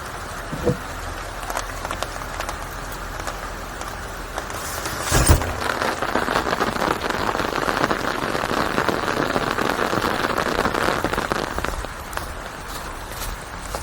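Rain falling steadily on a surface, individual drops clicking through the hiss. A single heavy thud comes about five seconds in, then the rain grows louder for several seconds before easing near the end.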